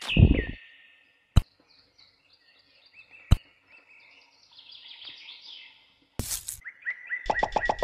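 Birds chirping faintly with short falling calls, broken by a low thump at the start and two sharp clicks about two seconds apart. A rhythmic music track comes in near the end.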